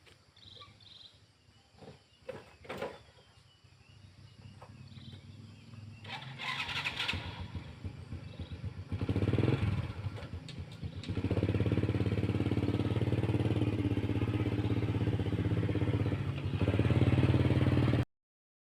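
Honda Wave 100cc single-cylinder four-stroke motorcycle engine starting about nine seconds in, then idling steadily. It cuts off abruptly near the end.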